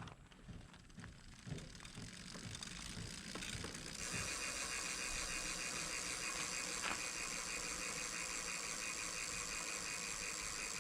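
Mountain bike wheel spinning, its freehub ratchet buzzing with rapid, even clicks that start suddenly about four seconds in, after a few scattered light clicks.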